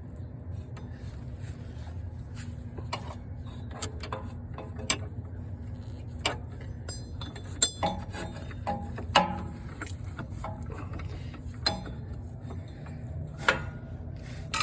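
Hand ratchet on a socket with swivel and extensions working a starter bolt: scattered metallic clicks and clinks of the tool, with a quick run of ratchet ticks a little past halfway, over a steady low hum.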